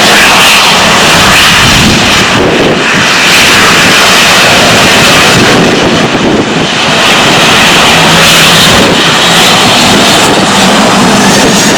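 Boeing 737-800 jet engines running at high power on departure: a loud, steady jet noise with a faint high whine above it.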